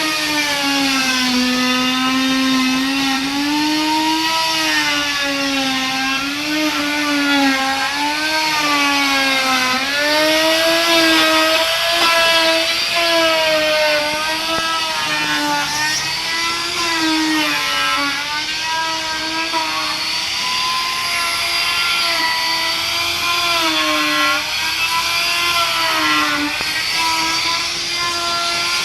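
Electric power tool motor whining continuously while working wood, its pitch dipping and recovering every second or two as the load on the cut changes.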